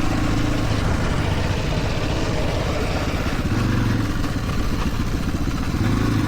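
Dirt bike engine running, a steady rapid pulsing beat.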